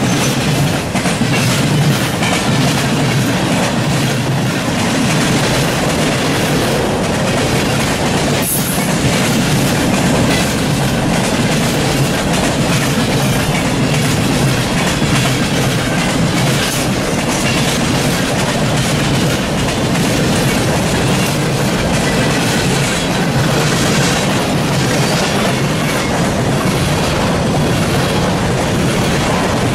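Norfolk Southern freight train's boxcars and hoppers rolling past close by: a steady, loud rumble of steel wheels on rail with repeated clickety-clack of the wheels over rail joints.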